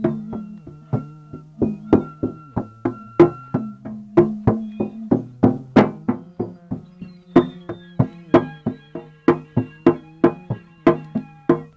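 A musical instrument played live: rhythmic knocking strikes, about three a second, over ringing low notes that shift pitch now and then.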